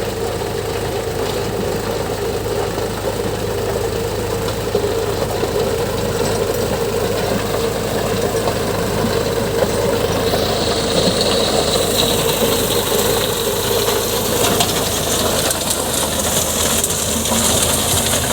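Indo Farm 3048 tractor's diesel engine running steadily. A higher hissing, crackling noise joins in from about ten seconds in.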